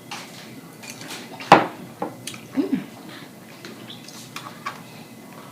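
Sharp clicks and knocks of tableware being handled during a meal, the loudest a single sharp knock about one and a half seconds in. A short, low, falling sound follows about a second later.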